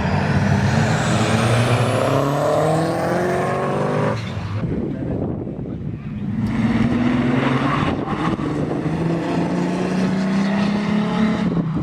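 Car engine running hard under acceleration, its pitch climbing for about four seconds, dropping sharply as the throttle comes off or a gear changes, then climbing again.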